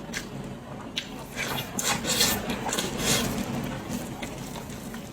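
Close-miked eating of a braised pig's head: a click about a second in, then a run of loud rasping bites and chews of the skin and meat that fades after about four seconds.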